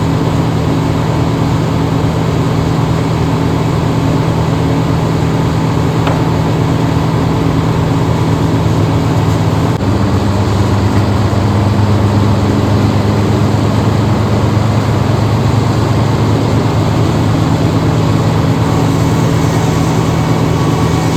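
A large engine running steadily; about ten seconds in its pitch steps up abruptly and it grows a little louder, then holds.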